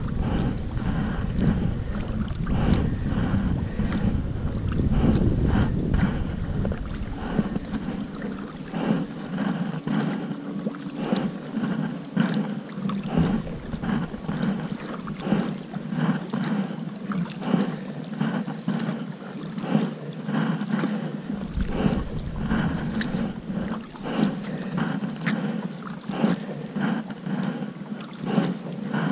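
Kayak paddling: paddle blades splashing and water slapping and lapping in irregular short bursts. Wind rumbles on the microphone, heaviest for the first several seconds and again briefly about two-thirds through.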